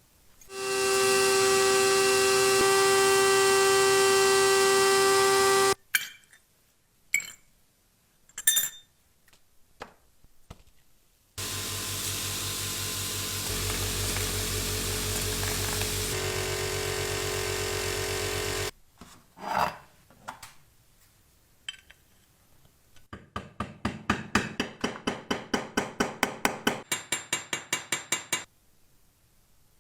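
A small high-speed power tool runs steadily for about five seconds, then stops. A few separate knocks follow, then the tool runs again for about seven seconds. Near the end comes a quick run of rhythmic scraping strokes, about five a second.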